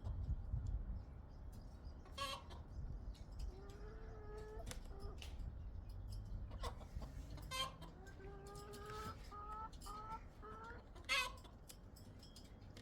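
Chicken clucking in a run of short, pitched calls, with a few sharp knocks of handling in between.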